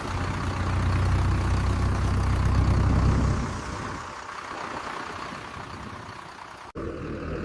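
Heavy diesel engine running with a deep low rumble over a steady hiss. It is loudest for the first three and a half seconds, then drops away.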